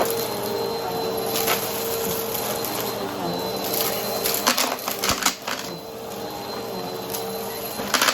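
Vacuum cleaner running with a steady motor hum while its spinning brushroll sucks up crunchy debris, giving bursts of crackling and clicking about a second and a half in, around four to five seconds in, and again near the end.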